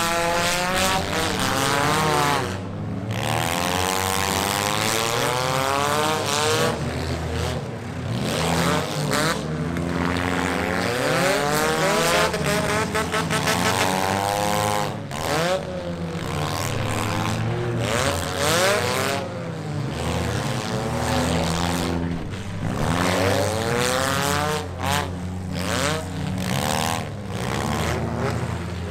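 Several demolition derby cars' engines revving on a dirt track, their pitches overlapping and repeatedly rising and falling as they accelerate and back off.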